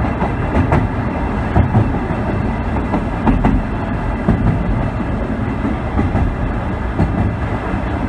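Sagano Scenic Railway trolley train running along the track: a steady rumble of wheels on rail with scattered irregular clicks and rattles, heard from aboard the carriage.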